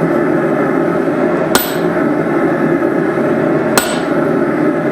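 Two hammer blows on a steel punch being driven through a hot hammer head, about two seconds apart, each with a short high metallic ring, over a steady background noise.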